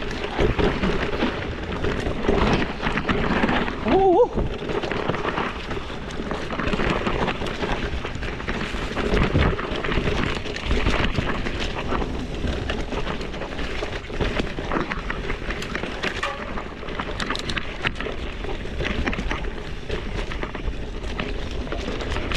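Bike tyres crunching and rattling over a rough, slippery dirt single-track, with the bike and camera mount clattering over bumps and wind buffeting the microphone.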